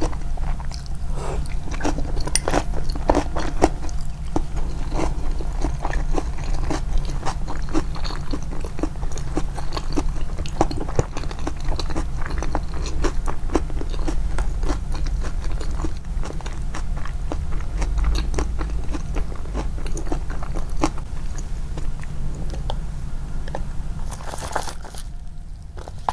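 Close-miked biting and chewing of crunchy food: many crisp, irregular crunches over a steady low hum, easing off briefly near the end.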